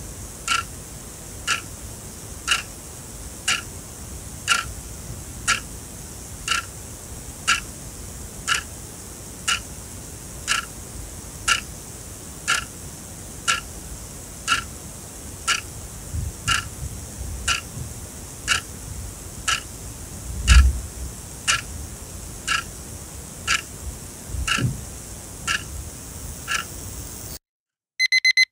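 Sonam quartz alarm clock ticking once a second, with a dull low thump about twenty seconds in. Near the end the ticking stops and the alarm starts beeping in rapid pulsed bursts.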